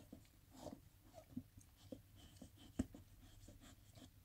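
Faint, irregular wet clicks and soft rustling: a springer spaniel licking herself and shifting on towels while whelping, with one sharper click nearly three seconds in.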